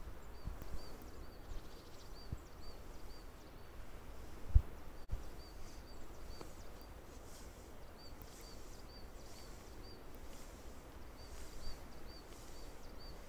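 A small bird calls a short, high chirp over and over in quick runs, over a low rumble. One loud thump comes about four and a half seconds in.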